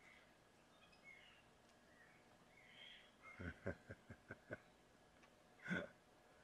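Quiet outdoor ambience with faint, short bird chirps, broken by a quick run of about six soft knocks and then one louder knock near the end.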